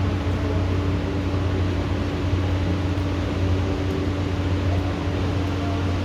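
Steady mechanical hum: a low drone and a constant tone over an even hiss, with no distinct events.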